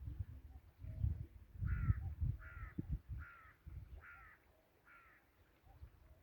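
A bird calling five times in an even series, a little under a second apart, over low rumbling noise.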